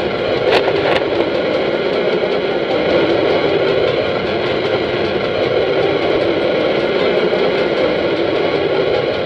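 Steady airplane engine noise, an even drone with no change in pitch, with a few short clicks in the first second.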